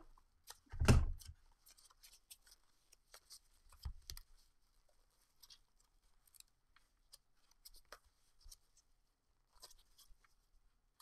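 Chrome trading cards being handled and sorted, with many small clicks and scrapes. A loud thump about a second in and a lighter knock near four seconds.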